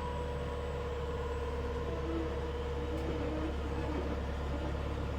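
The 1997 Hitachi EX100-5 excavator's diesel engine running steadily as it warms up, with a constant low rumble and a steady hum above it.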